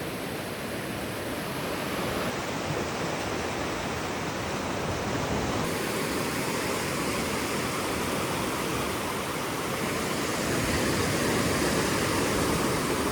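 Surf on a sandy beach: a steady rush of waves breaking and washing up, swelling a little near the end.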